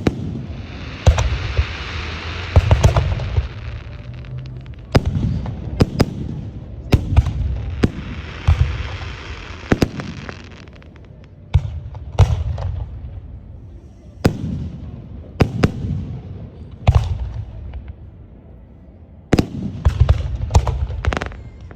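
Aerial fireworks going off in a steady run of sharp booms, about one a second, each with a low rumbling tail. Two stretches of hissing crackle are mixed in, about a second in and again around eight seconds in.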